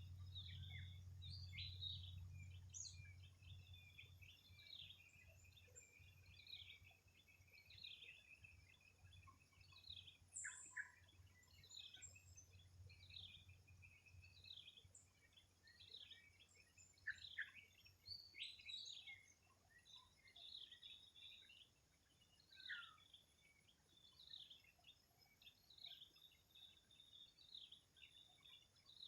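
Faint morning chorus of small birds, with many short, quick chirps and calls overlapping throughout. A low hum sits underneath and fades away about halfway through.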